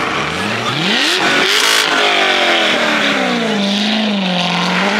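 A car engine revs hard as the car pulls away, its pitch climbing steeply for about a second and a half. A short burst of noise comes next, and then the revs fall and waver.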